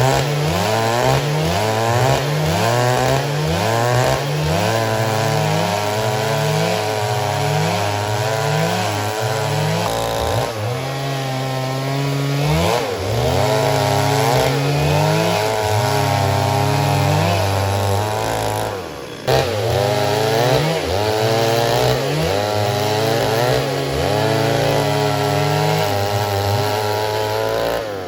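Stihl MS 382 two-stroke chainsaw cutting wood. Its engine pitch keeps sagging and recovering every second or so as the chain takes load, with a brief drop in level about nineteen seconds in.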